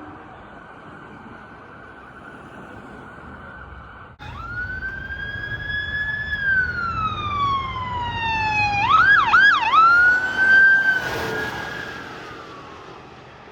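Police car electronic siren switching on suddenly as the vehicle approaches: a slow wail that rises and then falls, two quick yelping sweeps, then back up to a high wail. Engine and tyre rush peak as the vehicle passes, and the siren drops in pitch and fades as it goes away.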